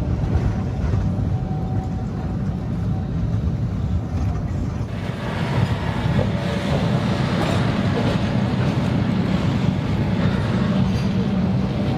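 Sóller railway train running along the track, heard from on board: a steady rumble of wheels on rails that turns brighter and noisier about five seconds in.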